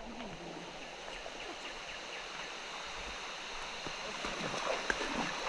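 Steady rushing of a shallow stream, with fine rain falling: small drops, but a lot of them.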